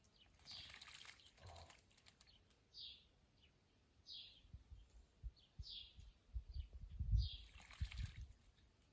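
A bird repeating a short, high, downward call note about every second and a half, faint. There are brief bursts of hiss near the start and near the end, and low thumps in the second half.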